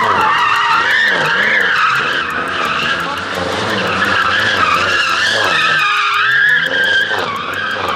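Car tyres squealing continuously in a drift or burnout, with the engine revving up and down again and again underneath.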